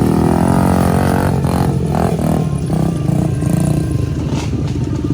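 Dirt bike engine revving and running, the pitch rising and falling in the first couple of seconds before settling into a steadier run.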